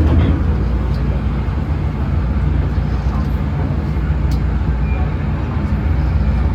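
MTR Kwun Tong line train running, a steady low rumble with a faint low hum and occasional light clicks.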